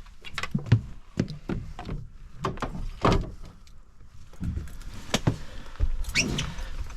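Irregular knocks, clicks and a few louder thumps of a T-bar disgorger being worked at a hook set deep in a freshly landed cod on the boat's deck.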